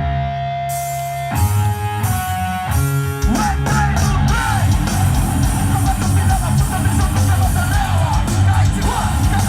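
Live heavy-metal band playing loud: distorted electric guitar chords held and changed, then about three seconds in the drums and full band come in together.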